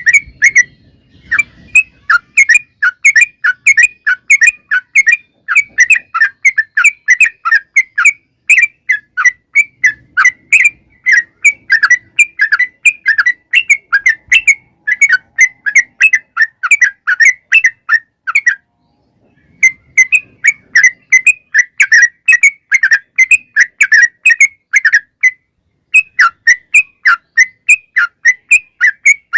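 Yellow-vented bulbul (trucukan) singing a long, fast song of rapid repeated bubbly notes, with two brief pauses.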